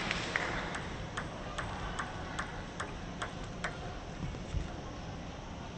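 Celluloid-plastic table tennis ball bouncing repeatedly with light ticks, about two and a half a second, stopping after about three and a half seconds.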